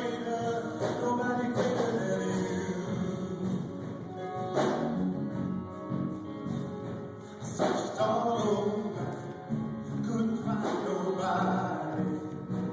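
Gospel music: voices singing over instrumental accompaniment, with a strong percussive hit about every three seconds.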